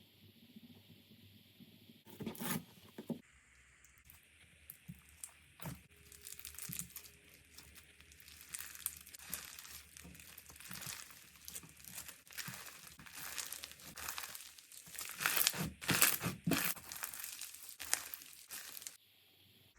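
Slime being squeezed and worked by hand, giving dense runs of small crackles and pops, sparse at first and loudest about three-quarters of the way through, stopping shortly before the end.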